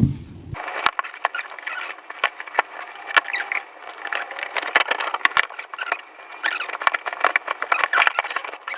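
Rapid, dense crackling and clicking of packaging and parts being handled during unboxing, thin-sounding with no low end from about half a second in.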